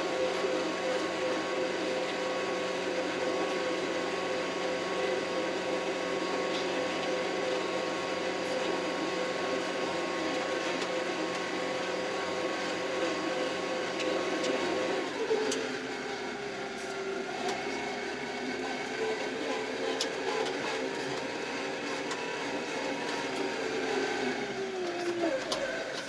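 Kioti RX7320 tractor's diesel engine running steadily with a whine. About fifteen seconds in the pitch drops, and near the end it slides lower again as the engine slows.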